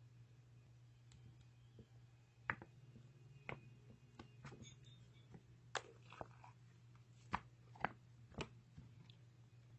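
Fluffy slime being pressed and squeezed by hand, giving sparse small clicks and pops over a faint steady low hum.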